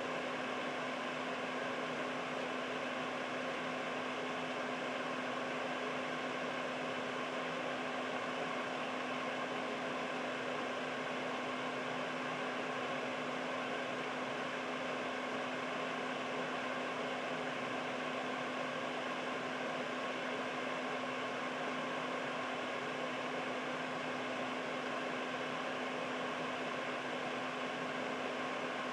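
Air purifier running steadily: an even rush of fan air with a steady low hum from its motor.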